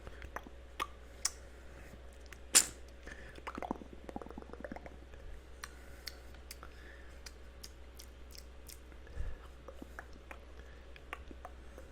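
Close-miked ASMR mouth sounds: irregular wet clicks and smacks, with one loud click about two and a half seconds in and a quick run of small clicks soon after, over a steady low hum.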